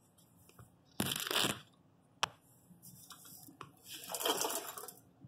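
Two short rustling, scraping bursts with a sharp click between them: handling noise from a phone being held up and moved about beside the flywheel.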